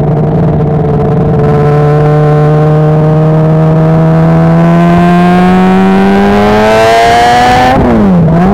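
Sport motorcycle engine heard from onboard, pulling steadily with its pitch slowly climbing as it accelerates, while wind rush builds. Near the end the pitch dips sharply and climbs back.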